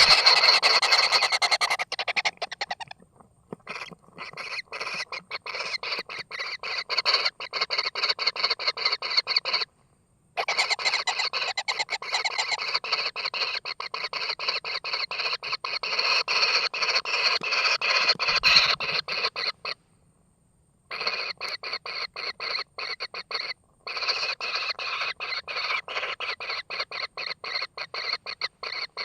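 Kingfisher chicks giving rapid, raspy begging calls, many pulses a second, which break off abruptly a few times and then start again.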